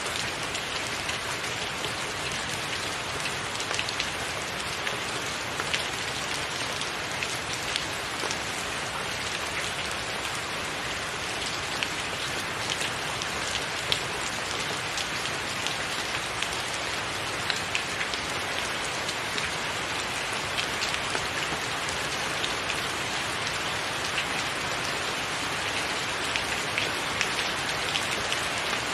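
Steady rain falling on a roof, an even hiss with many sharp drop ticks scattered through it.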